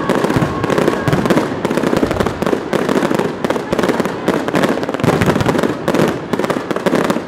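Fireworks and firecrackers going off in a rapid, continuous crackle of sharp bangs and pops.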